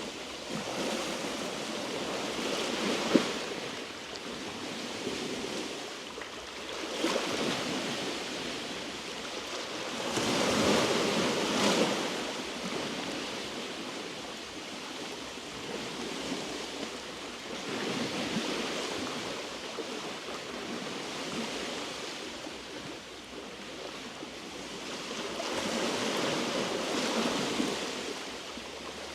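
Small sea waves washing over a rocky shore, swelling and falling back every few seconds, with one sharp click about three seconds in.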